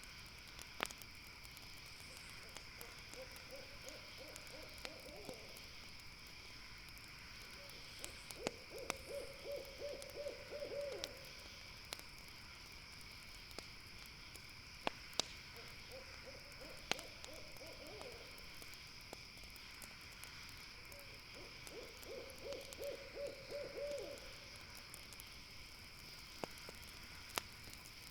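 An owl calling in four bouts of quick, rapidly repeated low hoots, each bout lasting two to three seconds. Scattered sharp pops from a crackling campfire and a steady high drone run underneath.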